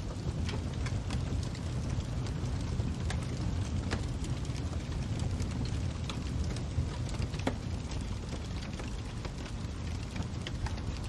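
Fire crackling: a steady low rumble with irregular sharp pops and crackles scattered throughout.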